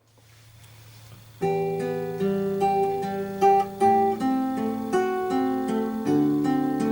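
Solo acoustic guitar playing a plucked melody over held chord notes, starting suddenly about a second and a half in after a faint low hum.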